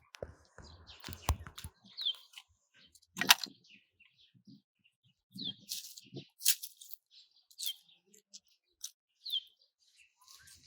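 Outdoor birdsong: a bird repeating short chirps that fall in pitch, every couple of seconds. Several sharp clicks or knocks are mixed in; the loudest comes about three seconds in.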